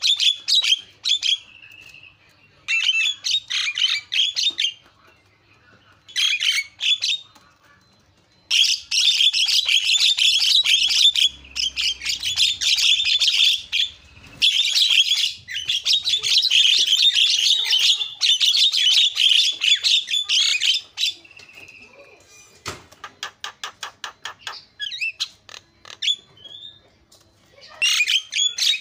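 Javan myna (jalak kebo) singing: bursts of rapid, harsh, chattering song separated by short pauses, the longest runs lasting several seconds. A little past two-thirds of the way through comes a quick run of sharp clicks, roughly eight a second.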